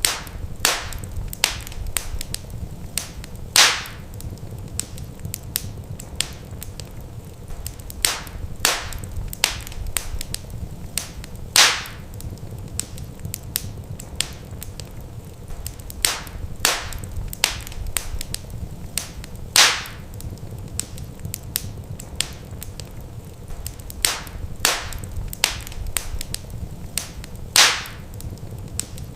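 Wood fire in a fireplace crackling, with sharp pops over a low, steady rumble. The same cluster of pops repeats about every eight seconds, each ending in one louder pop, as in a looped recording.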